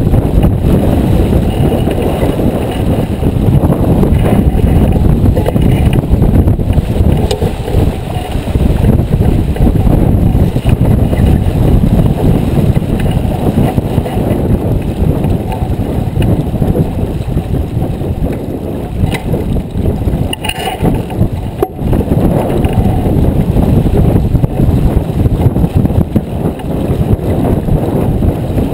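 Wind buffeting the microphone aboard a J24 sailboat under way, a loud, gusty low rumble.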